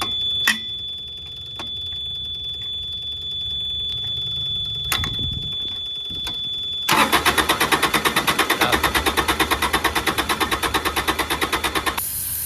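A steady high-pitched alarm tone sounds over a low hum. About seven seconds in, loud rapid pulsing takes over at about nine pulses a second. Near the end it gives way to the hiss of an aerosol cleaner being sprayed.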